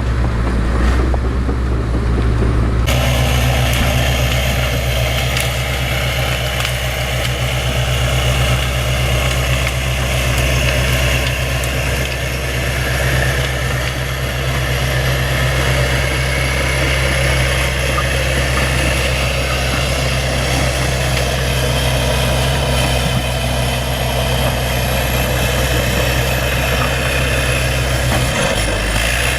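Bulldozer's diesel engine running at a steady speed, with a rattly mechanical noise added over it from about three seconds in.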